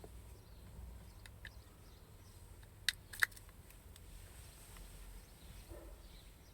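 Two sharp clicks about three seconds in, a third of a second apart, with a few fainter ticks over a low background hum.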